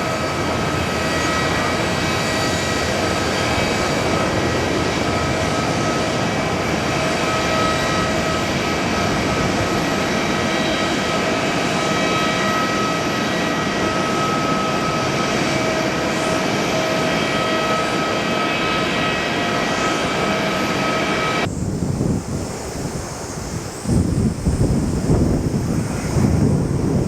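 Jet airliner engines running, a steady whine of several tones over a loud rushing noise. About 21 seconds in it cuts off abruptly, and wind buffets the microphone.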